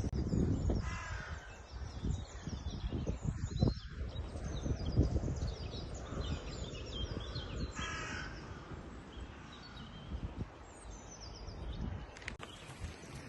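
A crow cawing twice, about a second in and again about eight seconds in, with faint chirps of small birds and a steady low rumble.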